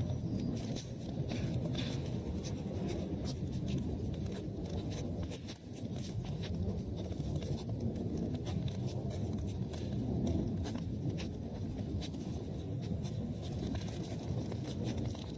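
Wood fire in a fireplace burning steadily: a low rumble of flames with frequent sharp crackles and pops.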